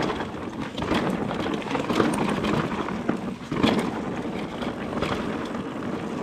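Mountain bike riding down a rough dirt trail: a steady rush of tyres rolling over the ground, with several sharp knocks and rattles from the bike hitting bumps, the loudest about three and a half seconds in.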